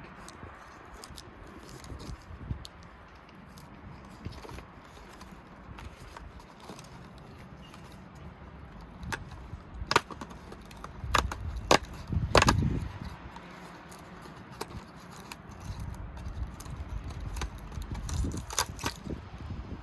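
Hands handling small packaging and plastic pieces: scattered light clicks and crinkles, with a cluster of sharper snaps and clacks near the middle.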